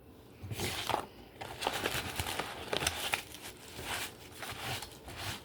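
Irregular crinkling and rustling, like something being handled or crumpled, starting about half a second in.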